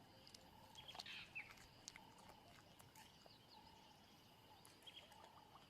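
Faint bush ambience with soft bird calls, one a little louder about a second in.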